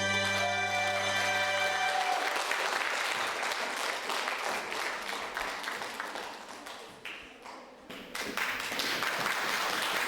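A backing track's final held chord ends about two seconds in, then an audience applauds; the clapping thins out near seven seconds and swells again about a second later.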